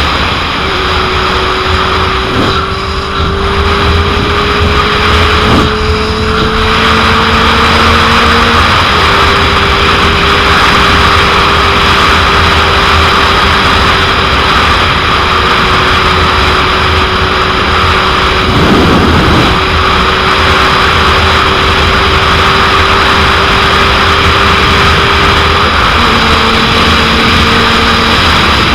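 Heavy wind noise rushing over the microphone of a 2001 Suzuki GSX-R750 at highway speed, with the bike's inline-four engine note steady underneath. The engine pitch drifts slowly and steps to a new level about nine seconds in and again near the end.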